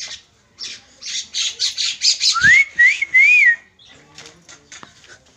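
Bird calling close by: a quick run of harsh chattering notes, then three whistled notes that rise and arch, with a low thump partway through.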